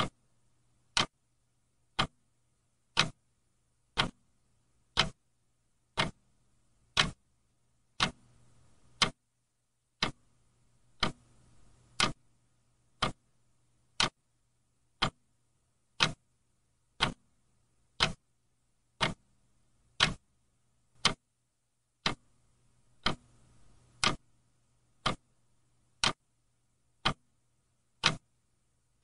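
Mechanical clock ticking steadily, one sharp tick each second.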